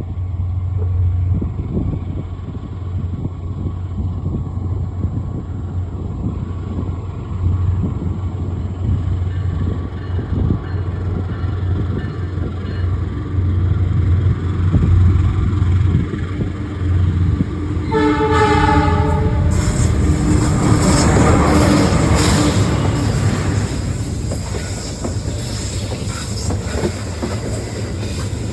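CC 206 diesel-electric locomotive running with a steady deep rumble. About two-thirds of the way in its horn sounds once for about a second and a half. Then the train passes close by, bringing a louder rush of wheel and rail noise.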